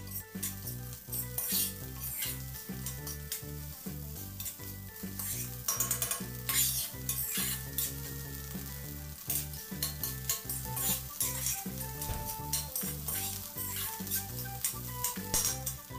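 Steel spatula stirring and scraping rice around a black iron kadhai, with frequent scrapes and clinks of metal on metal over the sizzle of the rice frying in hot oil.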